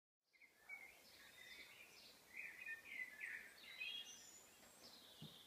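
Faint birdsong: small birds chirping and twittering against a soft background hiss, with a soft low thump near the end.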